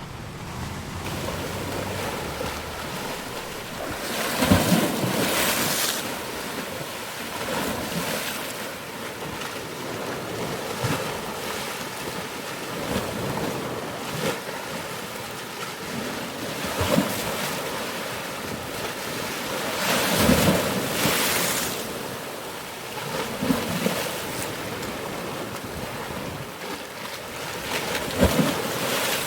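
Ocean surf: waves breaking and washing in as a steady rush, swelling into several louder crashes a few seconds apart.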